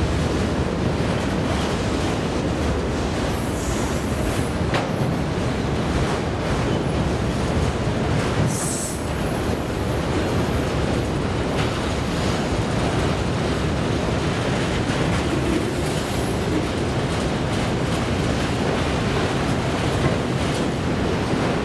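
Train rolling past on the rails: a steady noise of wheels on track, with brief high-pitched squeals a few times.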